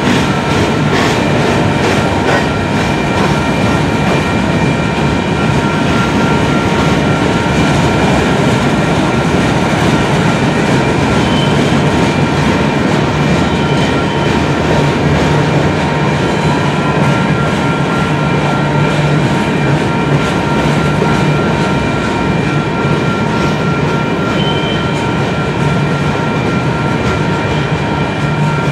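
Steel-wheeled covered hopper cars of a freight train rolling past: a steady, loud rumble of wheels on rail with a thin, constant high ringing over it. There are clicks from wheels over the rail joints in the first couple of seconds.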